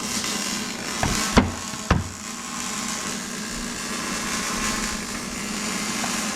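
Metal parts of a portal gear case being handled during teardown: a light tap and then two sharp metal knocks in the first two seconds, over a steady hiss.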